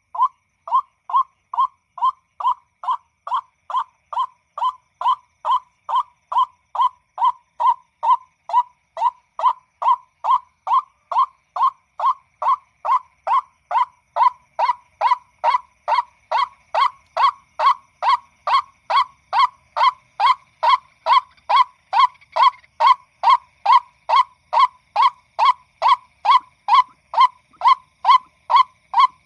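White-breasted waterhen call: a single 'ruak' note repeated about twice a second, steady and evenly spaced, with a faint steady high tone behind it.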